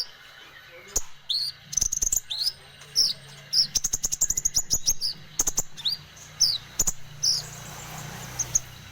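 A songbird that Indonesian bird-keepers call a konin sings vigorously ('gacor'). It gives a run of sharp, quick whistled notes that slide downward, with a fast burst of rattling clicks in the middle. A faint low hum runs underneath.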